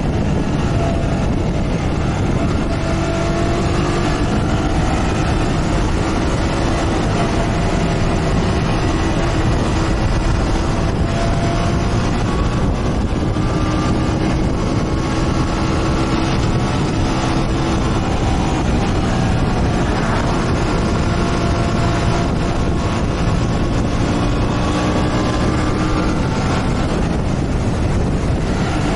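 Motorcycle engine running under way, with a steady rush of wind noise; the engine's pitch drifts gently up and down as the speed changes.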